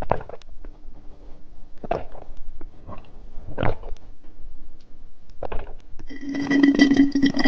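Close-up eating sounds of someone chewing candy: a few separate wet mouth smacks a second or two apart. Near the end a steady tone comes in for about a second and a half, louder than the chewing.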